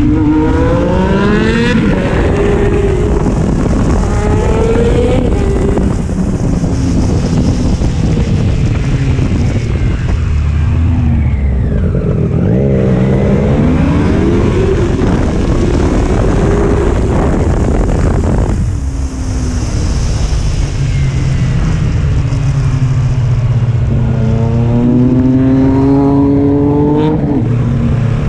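Sport motorcycle engine running at speed and accelerating hard several times, its pitch climbing and then dropping back at each gear change.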